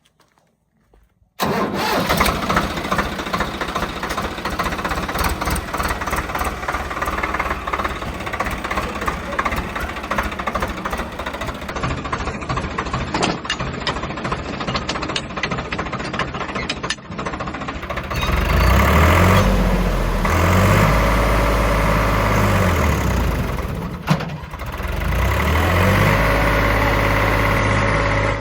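Diesel tractor engines running hard under load. The sound cuts in suddenly with a dense clatter. From about two-thirds of the way through, a deeper engine note rises and falls as it revs up and down.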